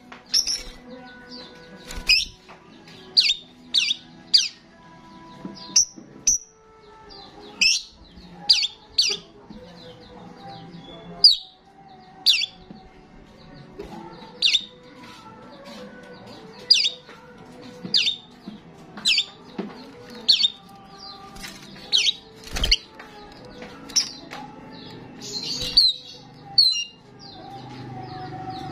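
Starling calling repeatedly: short, sharp, high-pitched calls about once a second, some in quick pairs or triplets.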